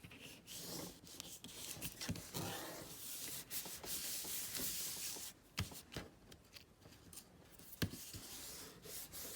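Paper being rubbed and smoothed by hand, a dry scuffing, with a couple of sharp taps partway through.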